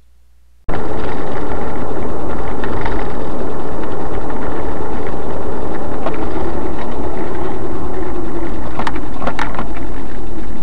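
Loud, steady vehicle engine and road noise that cuts in abruptly about a second in, with a few sharp clicks near the end.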